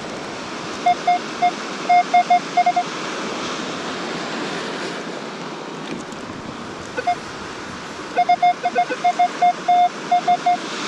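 Minelab Equinox 600 metal detector giving short, quick beeps of one pitch as the coil sweeps over a buried target, in two bursts, the second about seven seconds in. Steady wind and surf noise lie underneath.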